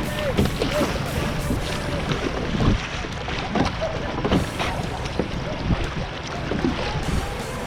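Whitewater kayaking on a river: steady rushing water with wind buffeting the microphone in uneven gusts.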